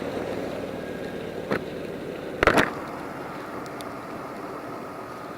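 Motorcycle running at road speed, with steady engine, wind and wet-road noise, broken by two short loud bursts about one and a half and two and a half seconds in.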